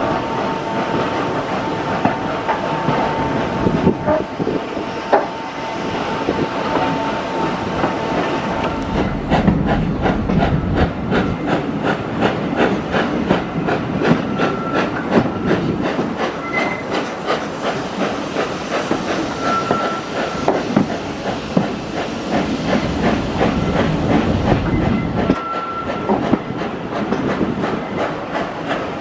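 Steam-hauled train of British Railways Mk1 coaches running along the line, its wheels clattering over the rail joints in a steady clickety-clack that grows busier about nine seconds in.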